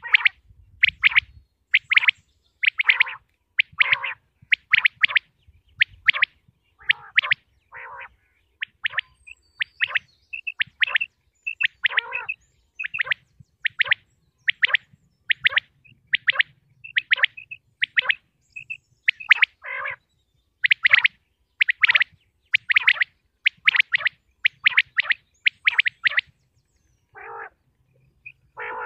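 Common quail (batair) calling: short, sharp notes repeated in quick runs, about two a second, with brief pauses between runs.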